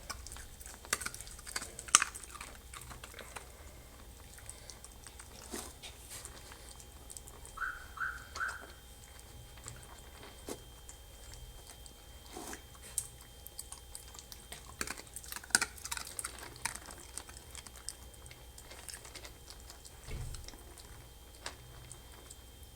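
Maltese puppies chewing and crunching dry kibble: scattered small clicks and crunches, with three quick high squeaks about eight seconds in.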